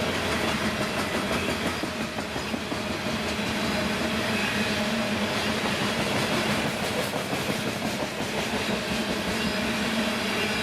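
Freight train rolling past at steady speed, its wheels clicking over the rail joints above a steady low hum.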